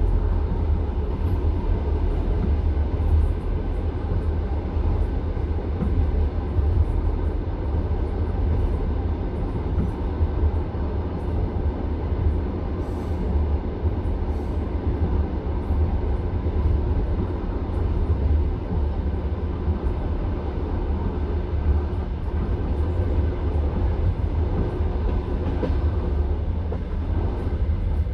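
Passenger train coach running along the track, heard from inside the carriage: a steady low rumble of wheels and car body, with faint irregular clicks.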